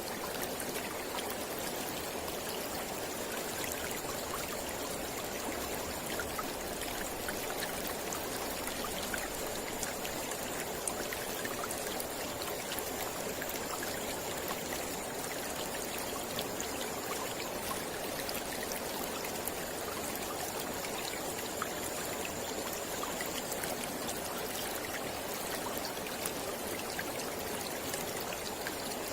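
Mountain river flowing steadily, an even continuous sound of moving water. A faint thin high tone sits above it, dropping out about two-thirds of the way through and coming back briefly twice.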